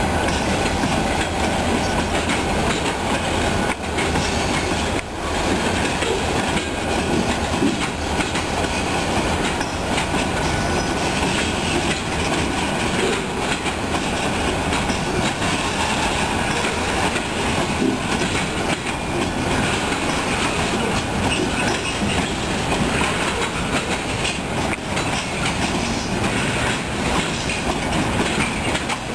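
Freight train cars rolling past, with a steady clatter of steel wheels on the rails.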